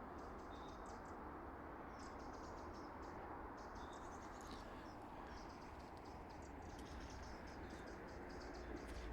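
Quiet outdoor ambience: a steady low background rumble with faint, high-pitched chirping trills repeating throughout.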